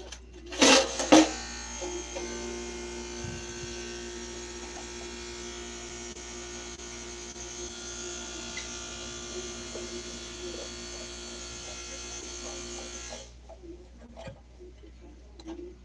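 A small electric motor running steadily with an even hum, after two short loud bursts at the start; it cuts off about three seconds before the end.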